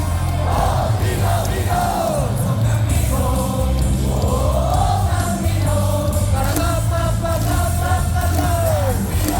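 Stadium loudspeaker music with a steady bass beat, and a large crowd of baseball fans singing a cheer song along with it.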